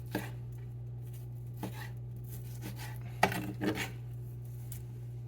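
Metal kitchen utensils clinking against cookware: a few separate light clinks, then a quick cluster of clinks about three seconds in.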